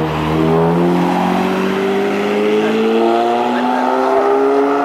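Lamborghini Murciélago's V12 accelerating away, its engine note rising steadily without a break.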